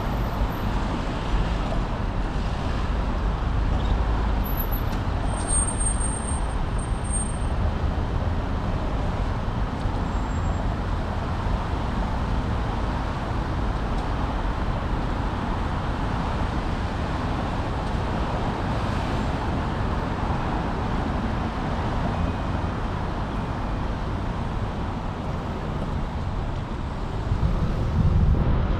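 Steady rush of wind and road noise on an action camera's microphone while cycling, with city traffic around. It gets louder briefly near the end.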